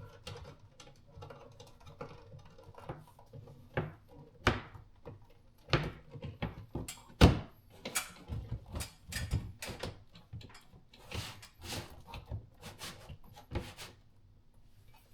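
Irregular clicks, taps and knocks of a new ceiling light fixture being handled and fitted into place, with the sharpest knock about seven seconds in.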